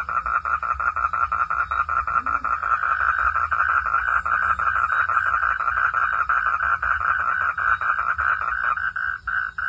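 Frog chorus: rapid, evenly repeating pulsed calls, steady and loud, thinning briefly near the end.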